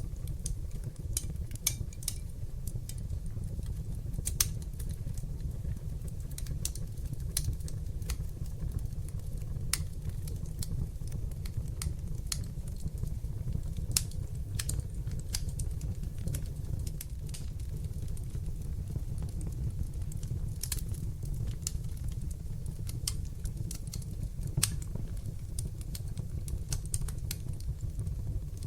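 Wood fire burning in a fireplace: a steady low rumble of flames with irregular sharp crackles and snaps, and a few louder pops scattered through.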